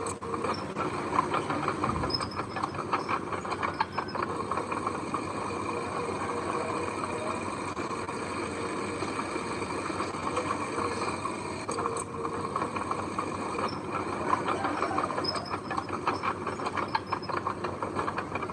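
Heavy construction machinery running steadily, with a continuous metallic rattle and clatter and a thump about two seconds in.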